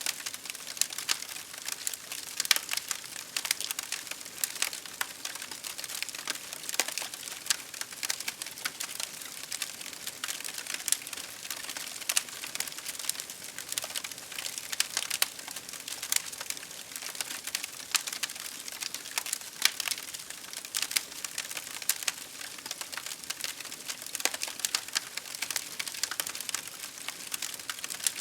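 Campfire crackling: dense, irregular pops and snaps over a steady hiss.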